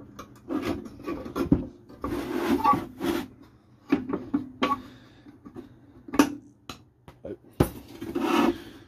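Parts of a refrigerator's ice-crushing and dispensing unit being handled and worked apart by hand: irregular clicks and knocks with a few longer scraping, rubbing stretches, the longest near the end.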